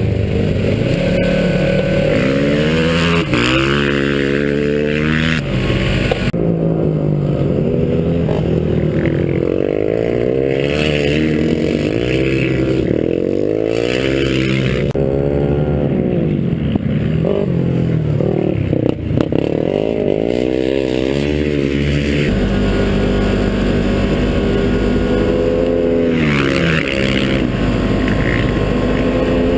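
Motorcycle engine revving hard on frozen lake ice, the pitch climbing and dropping back through gear changes again and again, then holding a steadier speed for a few seconds before winding up again.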